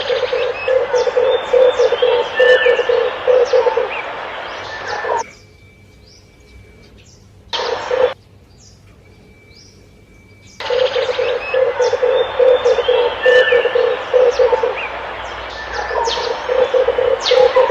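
Red turtle dove cooing: a rapid, bubbling series of low coos, given in bouts that start and stop abruptly with silent gaps between them, as in an edited lure recording. Other small birds chirp faintly above it over background hiss.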